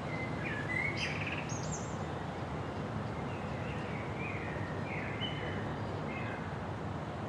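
Songbirds chirping several times, short high calls scattered through the first six seconds or so, over a steady low rush of wind.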